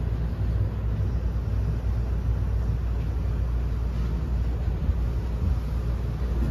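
Steady low rumble of train running noise heard inside a JR West 321 series electric train's unpowered trailer car: wheels on the rails and the car body, with no traction-motor whine.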